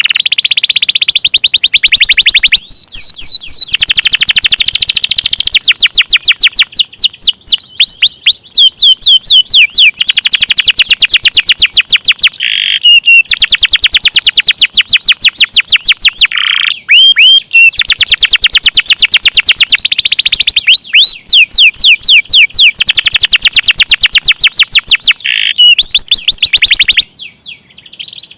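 Domestic canary singing long, very rapid rolling trills, phrase after phrase with only brief pauses, loud and close.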